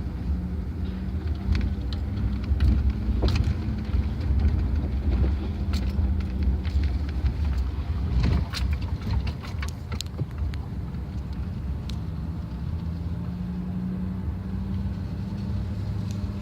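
Truck running while driving, a steady low engine rumble and hum, with scattered sharp clicks and ticks over the first ten seconds or so.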